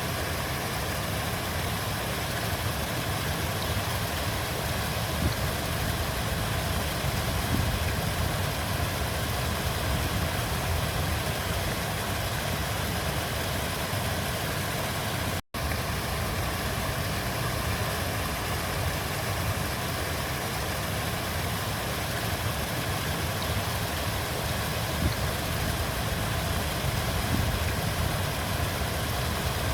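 River water flowing steadily, a continuous rushing with a strong low rumble. It cuts out for an instant about halfway through.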